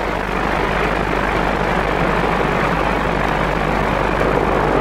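Steady, even rumbling noise of a train running, with a low hum underneath and no distinct beats or tones.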